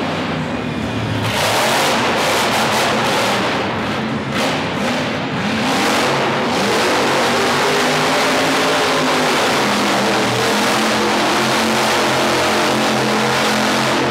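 Monster truck engine revving hard, its pitch rising and falling repeatedly, with a jump in loudness about a second in.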